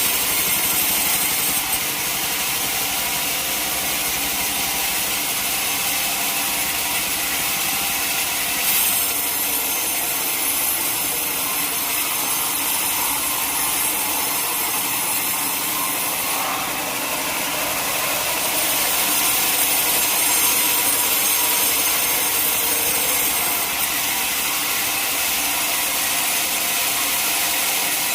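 Sawmill saw cutting lengthwise through a teak log: a steady, high hiss of blade in wood that shifts slightly in tone a few times.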